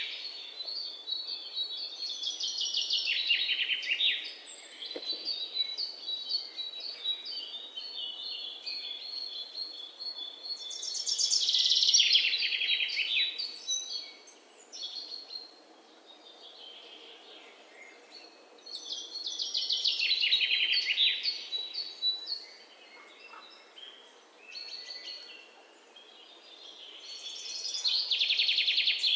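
Songbirds singing. One bird repeats a loud phrase of rapid trilled notes about every eight seconds, while thinner high chirps carry on between its phrases.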